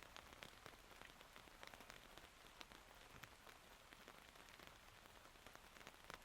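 Faint steady rain, with many separate raindrops making sharp little ticks over a soft hiss.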